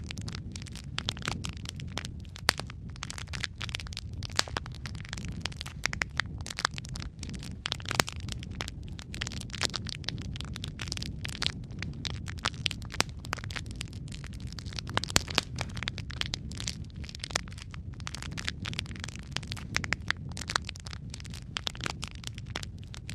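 Wood fire burning in a fireplace: a steady low rumble of flame under dense, irregular crackles and sharp pops.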